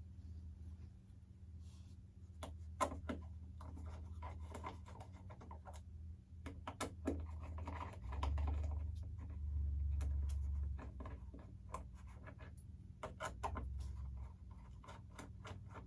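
Scattered clicks, taps and scraping from hands and a screwdriver working on a foam RC jet model while parts are unscrewed and pulled loose, over a low steady hum that grows louder for a couple of seconds in the middle.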